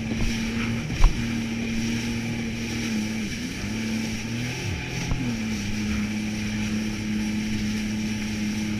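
Jet ski engine running steadily at cruising speed. Its pitch dips twice in the middle as the throttle is eased and opened again. There is a sharp knock about a second in.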